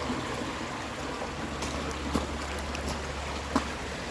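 Stream water running steadily under a road bridge, with a low rumble through the middle and two sharp knocks, the second louder, at about two seconds and three and a half seconds in.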